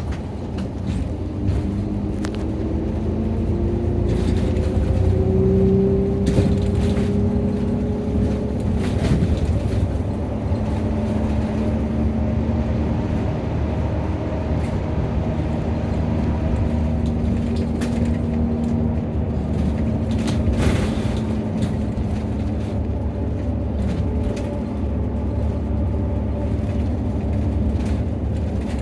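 Cabin of a Nissan Diesel (UD) Space Runner RA city bus under way, its diesel engine running over a steady low road rumble. The engine's pitch rises for the first several seconds as the bus pulls away, then holds steadier while it cruises.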